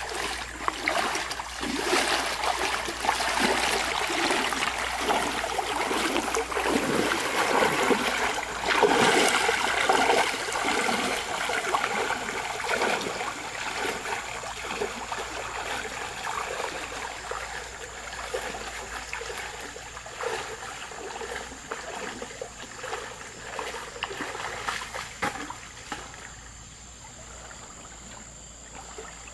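Water splashing and trickling, busiest and loudest in the first ten seconds or so, then easing off to a quieter trickle near the end.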